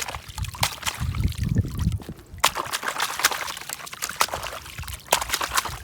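Water splashing and trickling as a muddy plastic toy truck is rinsed by hand in a paddy-field drain, with many irregular splashes and drips.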